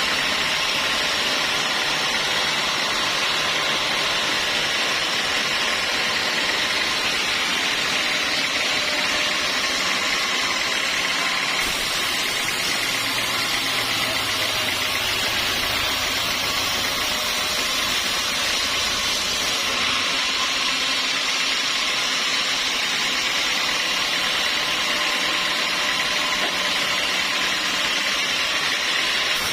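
Sawmill machinery running steadily: a continuous mechanical noise dominated by a high hiss, shifting slightly in tone about twelve seconds in and again near twenty seconds.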